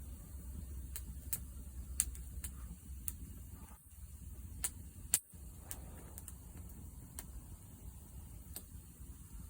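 Wood fire crackling, with irregular sharp pops and snaps over a steady low rumble; the loudest pops come about two seconds and five seconds in.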